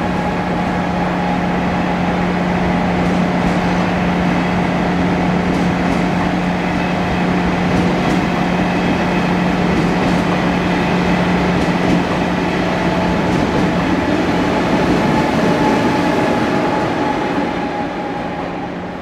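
A train running at a station platform: a steady hum with a constant low tone and fainter higher whines over rumbling noise, easing off over the last couple of seconds.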